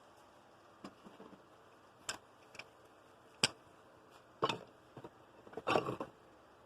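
A handful of separate sharp clicks and knocks, like metal tools and parts being handled and set down, with the loudest single click about halfway through and a short clatter near the end.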